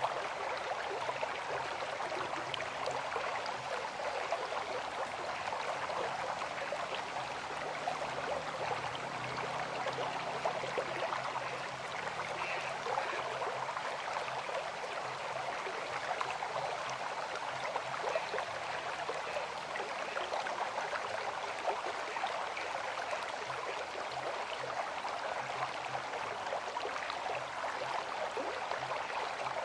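A river flowing, a steady rushing water noise with fine crackle through it and no pauses.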